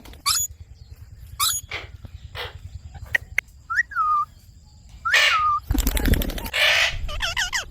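Indian ringneck parakeet calling: a run of short, sharp chirps and squawks, several ending in a quick falling hook. About six seconds in, a loud rustling burst with a low thump cuts in among the calls.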